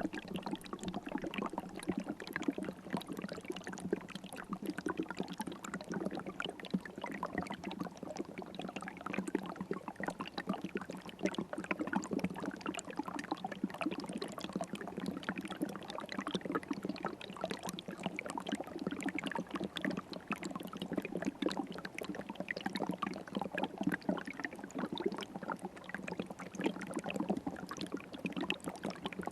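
River water flowing steadily, a continuous rush of small splashes and gurgles.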